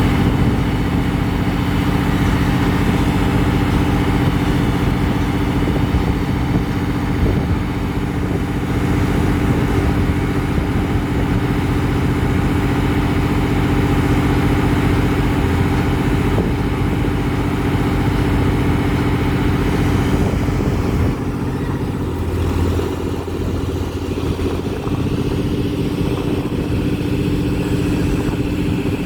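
Heavy diesel engine of a pile-driving rig running steadily, with a deeper low note joining about 21 seconds in.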